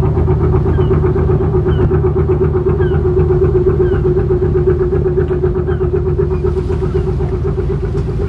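A boat's engine running steadily: a constant drone with a pulsing hum.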